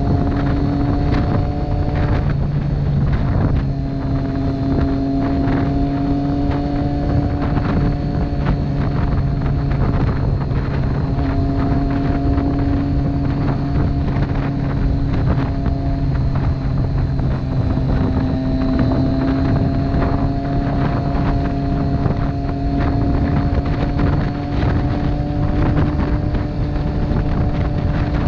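Motorcycle engine running at a steady cruise, its pitch shifting only slightly, with heavy wind rush on the microphone.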